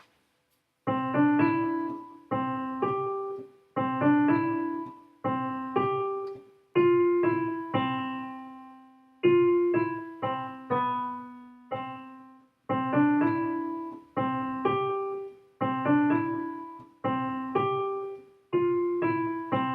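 Piano keyboard playing a simple right-hand pattern in three-beat groups: short three-note figures, each note struck and left to ring, repeated over and over at a slow steady pace, starting about a second in.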